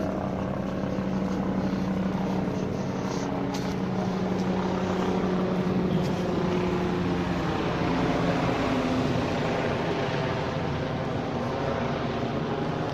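A motor vehicle running, a steady engine hum over road noise that swells through the middle; the hum fades after about eight seconds.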